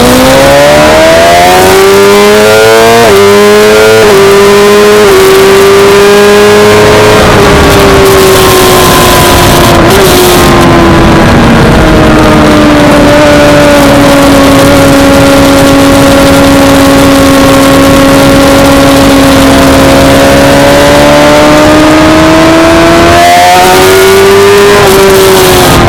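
Suzuki GSX-R600 inline-four racing engine at high revs under hard acceleration. Its note climbs through quick upshifts in the first few seconds, then holds a long steady pitch. Near the end it rises again and drops sharply.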